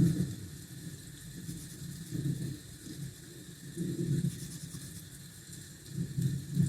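Rainy ambience: a steady high hiss of rain under low rumbles that swell and fade every second or so.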